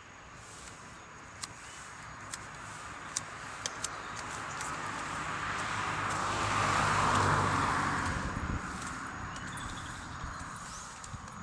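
A motor vehicle passing by: its engine and tyre noise swell, peak about two-thirds of the way through, then fade. Light clicks are scattered throughout.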